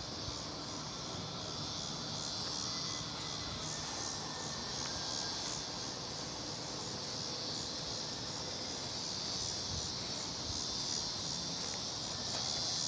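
A steady, high-pitched insect chorus with a slight pulsing, such as crickets or cicadas, runs on throughout.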